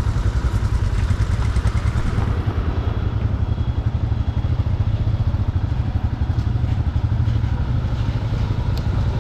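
Motorcycle running on the move, a steady low rumble with a rapid flutter.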